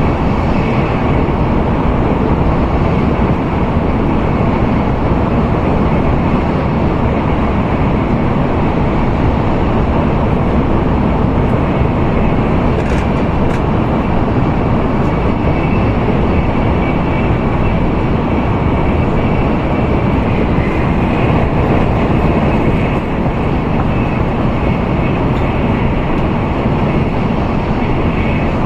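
Steady running noise inside the cabin of an N700A Tokaido Shinkansen at speed: a continuous rumble of wheels and air, with a faint high whine above it.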